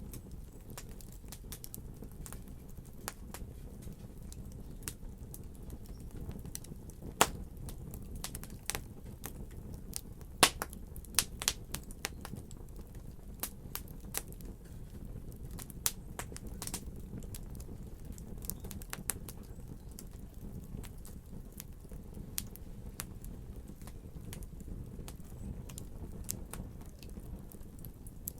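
Fireplace fire crackling over a steady low rumble, with irregular sharp pops and snaps that come thickest and loudest in the middle stretch.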